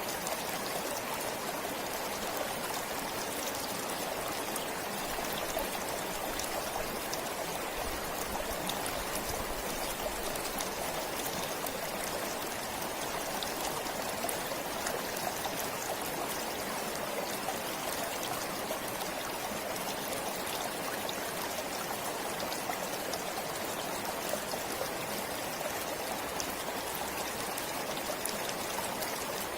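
Stream water flowing steadily, an even rush with small splashes throughout.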